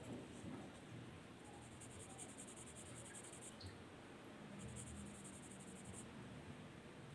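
Faint scratching of a drawing tool on paper in quick back-and-forth strokes, in two spells of about two seconds and one and a half seconds.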